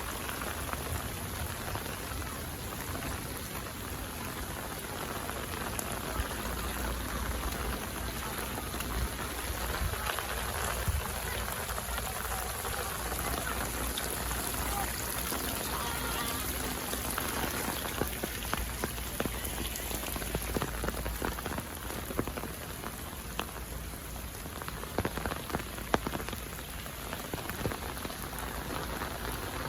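Steady rain falling on hard surfaces, with scattered sharper drips and taps, a few louder ones near the end.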